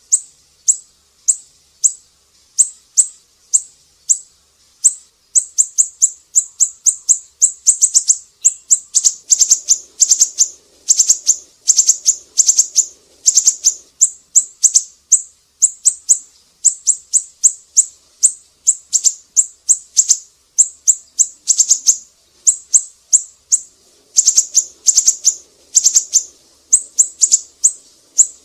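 Siri-siri bird calling: a long series of short, sharp, very high chirps, slow and spaced at first, then coming in quick runs of several a second from about five seconds in.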